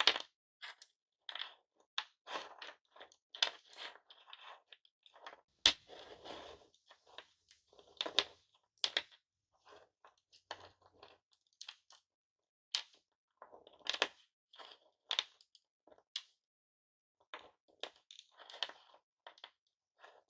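Hard-candy lollipops being crushed and their broken pieces handled: irregular crunches and clicks of candy shards, with one sharp crack a little under six seconds in as the loudest.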